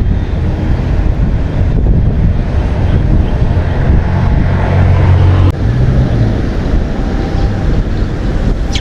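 Wind buffeting the microphone: a loud, steady low rumble that rises and falls.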